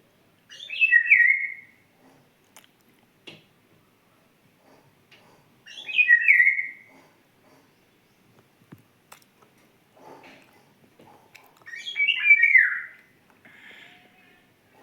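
A small songbird calling three times, about five seconds apart. Each call is a quick run of notes that falls from high to lower pitch.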